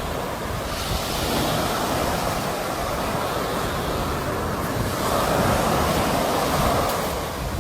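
Sea waves breaking and washing in, the surf swelling about a second in and again, louder, a few seconds later before easing.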